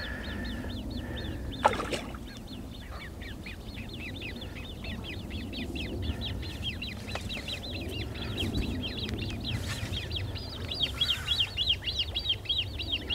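A bird calling in a long, rapid run of short high chirps, several a second, growing louder near the end, over a low steady rumble, with one short knock about two seconds in.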